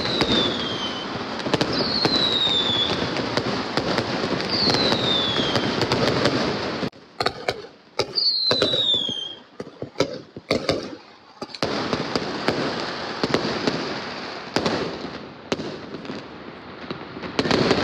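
Fireworks going off close by: a dense crackling barrage with several falling whistles, thinning about seven seconds in to a few seconds of separate sharp bangs before the crackling fills in again.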